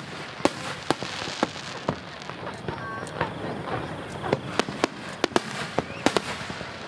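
Aerial fireworks shells bursting in quick succession: sharp bangs about twice a second over a steady crackle.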